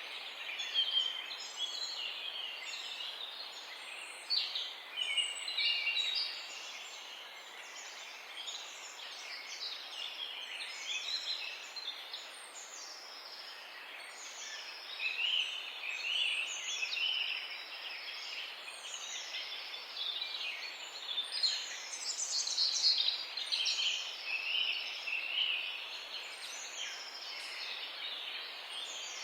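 Several songbirds chirping and singing together in a morning chorus: many overlapping short chirps and whistled phrases over a faint steady background hiss.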